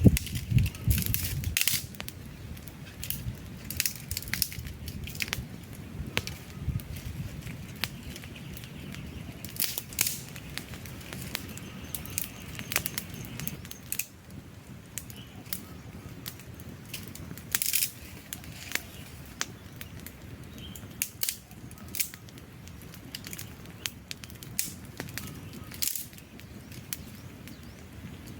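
Wood campfire crackling: irregular sharp pops and snaps over a steady low rush of flames, with a louder low rumble for the first second or so.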